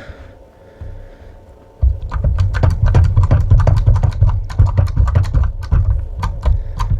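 Hand crimping tool being worked on a 25 mm² cable lug: a faint knock about a second in, then from about two seconds a fast, irregular run of sharp clicks and knocks over a low rumble.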